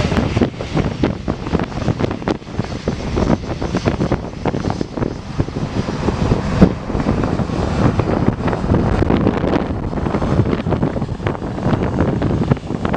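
Gusty wind buffeting the microphone, in irregular rushes and thumps.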